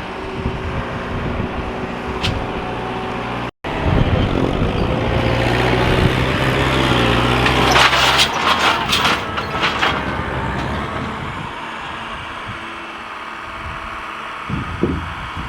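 Tractor engine running under load. About eight seconds in, a burst of knocks as the monster truck tire hits the 55-gallon drums, after which the engine settles lower.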